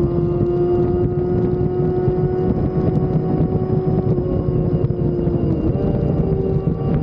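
Sport motorcycle engine running steadily while riding, with wind buffeting the microphone; the engine note shifts about six seconds in.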